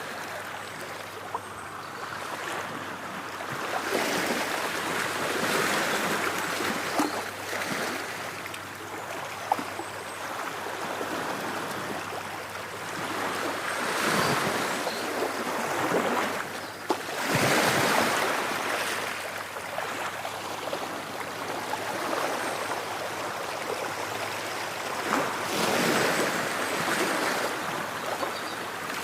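Ocean waves breaking and washing on a shore, the surf swelling and fading every few seconds, with small sharp splashes now and then.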